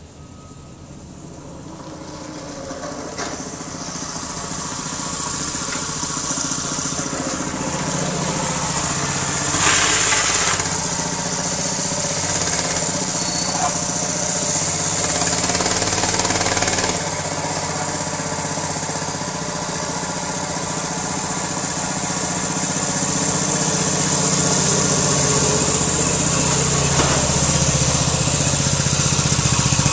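6.5 horsepower single-cylinder small engine running under way on a small vehicle. It grows steadily louder as it comes closer, dips briefly about two-thirds of the way through, then rises again.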